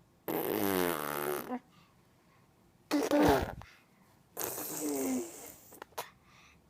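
A young child making playful, silly vocal noises three times: a first one of over a second that falls in pitch, then two shorter ones about two and four seconds in.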